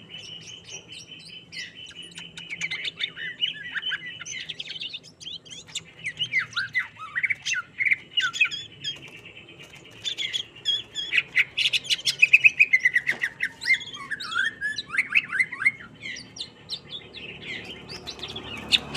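Green leafbird (cucak hijau) singing a fast, unbroken stream of chirps, trills and slurred whistled notes, fiercely worked up, or 'emosi' as bird keepers say; the song is loudest in its middle stretch.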